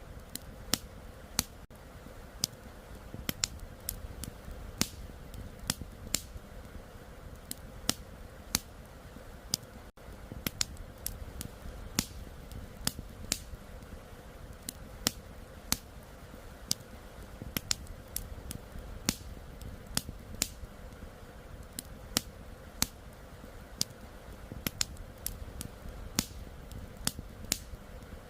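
Wood campfire crackling, with sharp irregular pops about two a second over a steady low rush of flowing river water.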